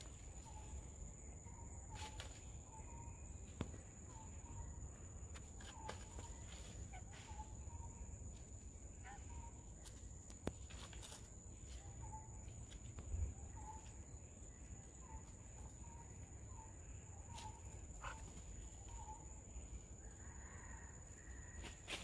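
A bird calling with a long series of short, soft chirps, repeated irregularly every half second to a second, over a steady high-pitched whine. Scattered sharp clicks and one low thump a little past halfway.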